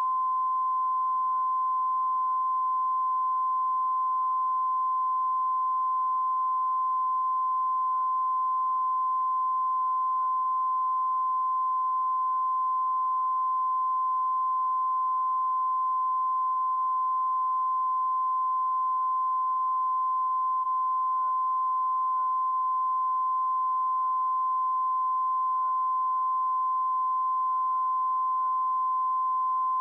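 Continuous broadcast test tone: a single steady sine tone at about 1 kHz that holds at an unchanging level.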